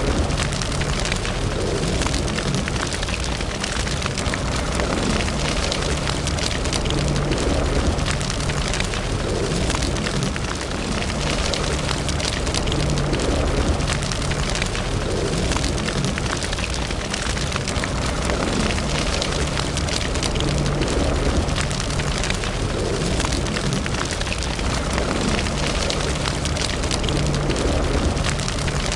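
Wood fire burning in a fireplace, crackling steadily with many small pops over a low rumble.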